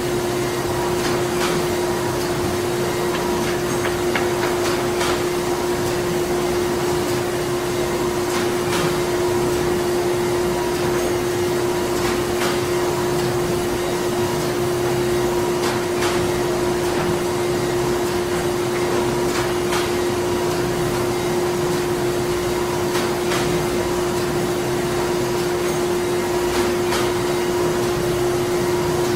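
Printing-factory machinery running steadily: a constant hum over a dense whir, with faint, irregular clicks and knocks every second or so.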